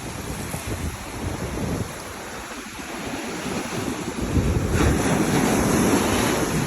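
Ocean surf breaking and washing on a beach, with wind buffeting the microphone. A wave comes in louder about five seconds in.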